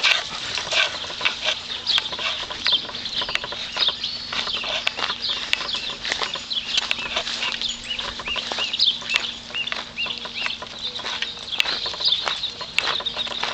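Birds chirping, many short high calls in quick succession throughout, over a faint steady hum.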